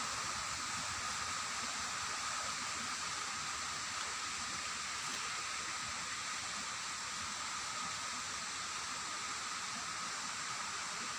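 Steady, even rushing noise with a faint high tone held through it.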